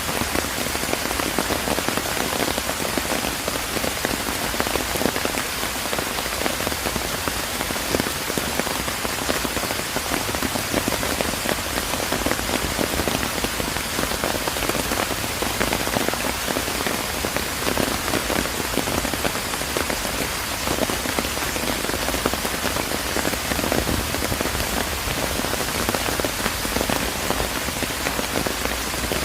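Steady rain falling, a dense even hiss with many individual drops striking close by.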